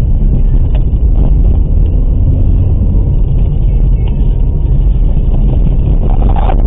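Low, steady road and engine rumble inside a moving car's cabin.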